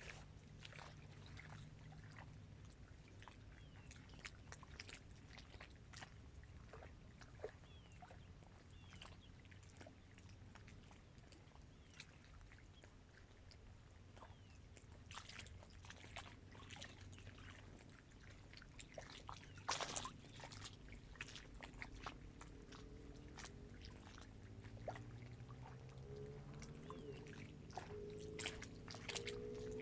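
Small waves lapping against the reservoir shore: a scatter of little splashes and trickles over a faint low rumble. In the last few seconds a motor's hum comes in and rises in pitch.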